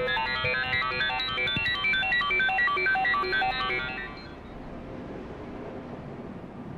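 An iPhone alarm ringtone plays a fast melody of short, bright electronic notes, then stops about four seconds in. Only a faint steady background hiss follows.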